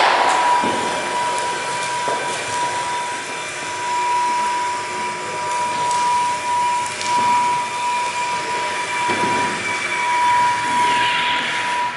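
A motor running steadily, giving a constant high whine over a hiss, with a few light knocks.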